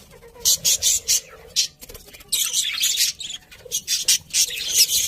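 Budgerigars chirping: rapid, irregular bursts of high chirps, several a second, running together most thickly in the middle.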